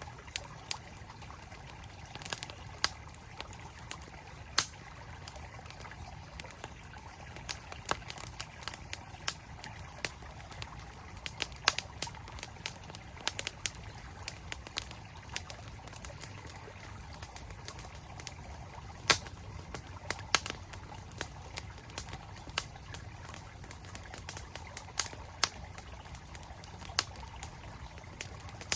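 Wood campfire crackling with irregular sharp pops, over the steady flow of a mountain stream. One pop about two-thirds of the way through is the loudest.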